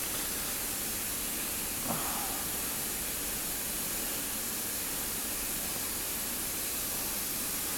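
Steady hiss of the recording's background noise, with one faint brief small sound about two seconds in.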